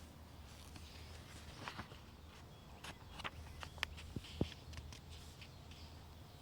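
Faint woodland ambience: a low, steady wind rumble with scattered small clicks and rustles, most of them about 1.5 to 4.5 seconds in.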